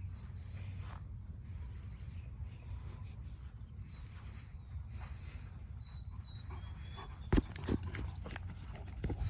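A dog making faint short sounds over a steady low rumble, with a sharp knock a little past seven seconds and a few more just before the end.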